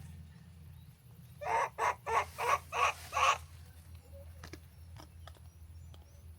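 An animal calling: six short, harsh calls in quick succession, followed by a few faint clicks.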